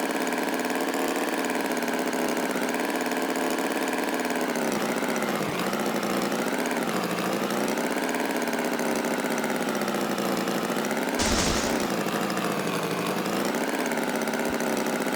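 An engine idling steadily, with a short rough burst about eleven seconds in.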